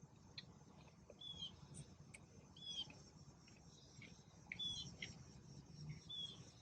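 Near silence with faint, short high chirps recurring about every second and a half, and a few soft clicks.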